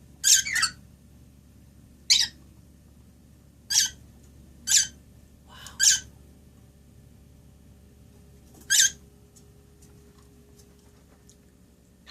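Pet birds giving short, high-pitched chirps, six of them spaced irregularly, each lasting under half a second.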